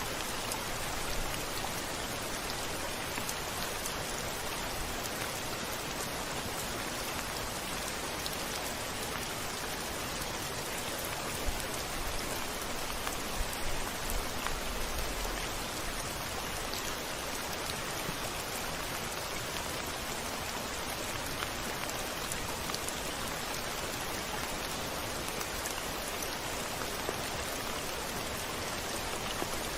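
Steady rain falling on a window glass, a dense even hiss with scattered small drop ticks. A brief low rumble swells about halfway through.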